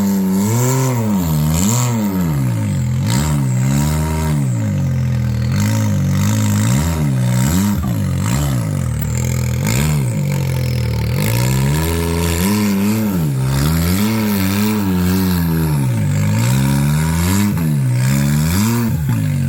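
Side-by-side UTV engine revving up and falling back again and again in short throttle bursts while crawling over rocks, with scattered knocks and scrapes.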